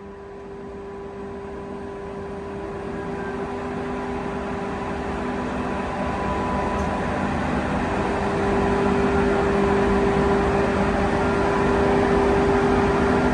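Renfe class 269 electric locomotive approaching: a steady hum with a few held tones over rolling rumble, growing steadily louder.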